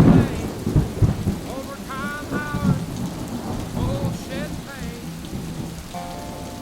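Rain falling, with thunder rumbling loudest at the start.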